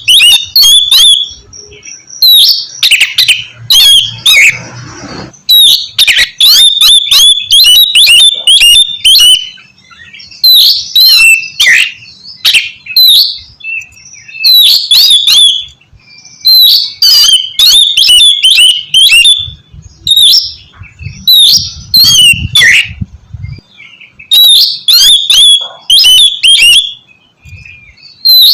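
Oriental magpie-robin (kacer) singing loudly in full song: rapid, varied whistled phrases in bursts of a second or two, with short pauses between them.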